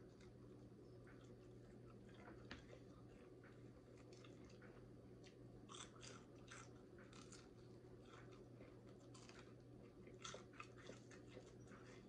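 Faint chewing and crunching of crisp fried chicken: short, crackly crunches and mouth clicks in clusters, busiest around six and ten seconds in, over a low steady hum.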